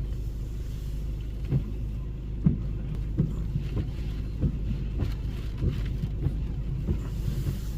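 Storm-force wind buffeting the microphone: a steady low rumble with short bumps from gusts every second or so.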